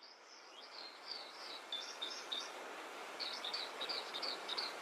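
Small birds chirping in runs of short, high notes over a steady outdoor hiss, fading in from silence.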